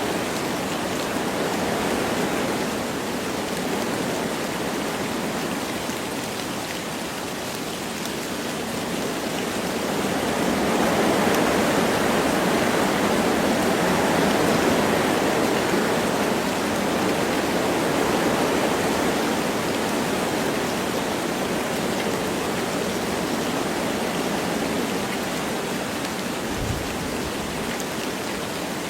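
Wind rushing through forest trees with light rain falling, a steady noise that swells in a gust through the middle and then eases.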